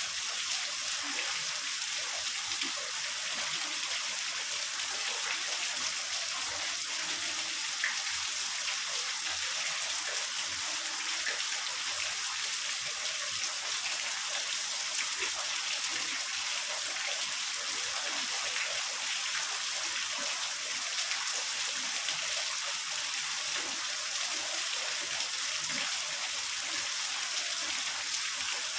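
Heavy rain falling in a steady, dense hiss, with many small drop ticks.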